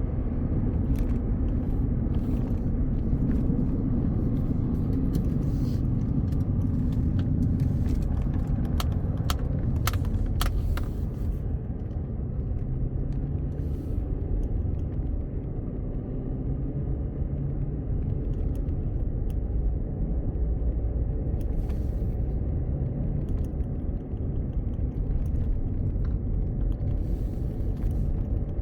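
A car driving, with a steady low rumble of tyre and engine noise. There is a cluster of brief clicks or ticks about a third of the way in and a few more near the end.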